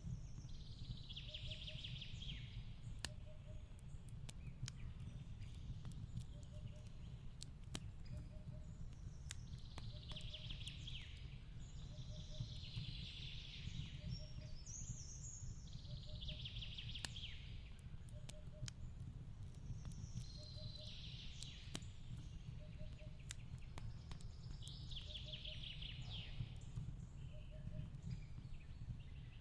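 Quiet fireplace-and-forest ambience: a wood fire crackling with scattered sharp pops over a low steady rumble. Mixed in, a bird sings a short buzzy descending trill every few seconds, and a faint double chirp repeats about once a second.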